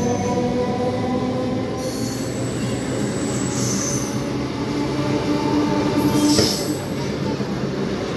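Electric multiple unit suburban train running past the platform as it leaves, its wheels rumbling steadily over the rails with a few steady tones. Short high-pitched squeals come about three and a half and six and a half seconds in.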